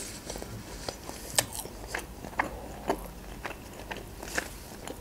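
A person chewing a mouthful of fried chicken cutlet with the mouth closed: soft wet chewing broken by many short clicks at irregular intervals.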